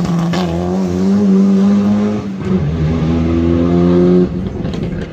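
Rally car engine at high revs under hard throttle, with an upshift about two and a half seconds in and the note climbing again, then the throttle lifting suddenly past four seconds in.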